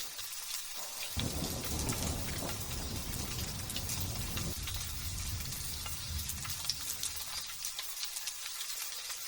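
Light drizzle pattering steadily with fine drop ticks. A low rumble of thunder comes in suddenly about a second in and fades away over the next several seconds.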